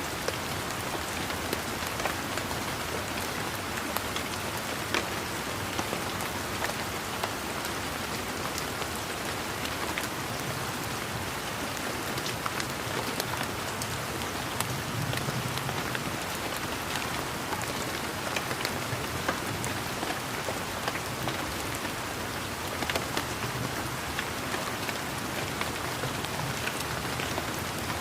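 Steady rain falling on a garden, an even hiss with many individual raindrops pattering and ticking on leaves and surfaces.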